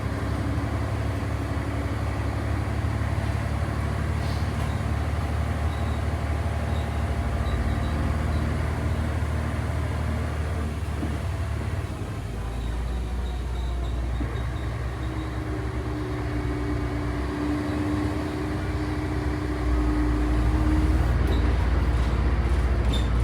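A 1996 Volvo B10B bus's diesel engine running steadily as the bus drives along, heard from inside the cabin. The engine note drops about twelve seconds in and picks up again near the end, with a faint steady whine for a few seconds before that.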